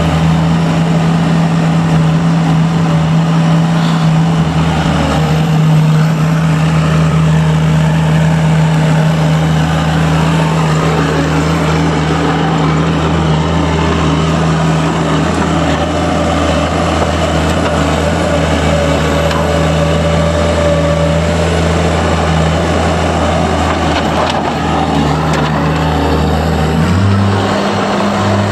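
A motor vehicle's engine running at a steady speed with a low hum; its pitch steps up near the end.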